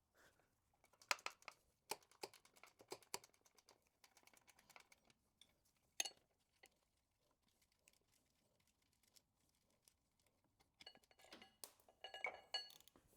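Faint, irregular clicks and metallic clinks of hand tools working the bolts of a car's power steering pump, with a single sharp click about six seconds in and a cluster of ringing metal clinks near the end as the pump comes free.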